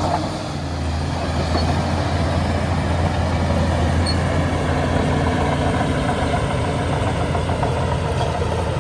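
Heavy diesel engine of a Shantui DH17C2 bulldozer running steadily, dipping briefly just after the start.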